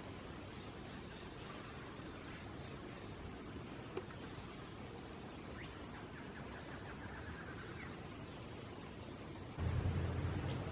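Faint bird calls, including a quick trill of short notes in the middle, over a steady high-pitched whine with a light repeating tick. About a second before the end the background switches abruptly to a louder low rumble.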